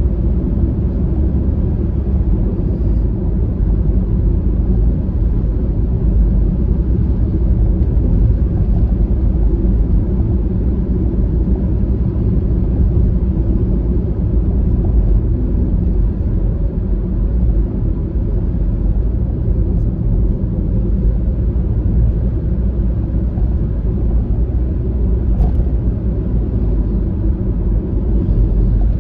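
Steady low rumble of road and engine noise inside a Honda Freed's cabin while driving.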